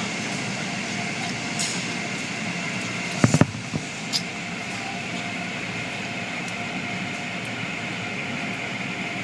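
Car wash machinery running: a steady rush of water spray and motor noise, with a short cluster of sharp knocks about three seconds in.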